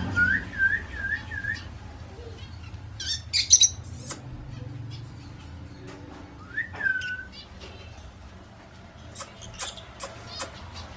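Indian ringneck parakeet calling: a run of four quick whistled chirps, then loud shrill screeches a few seconds in, a single rising-then-falling whistle near the middle, and more shrill calls near the end.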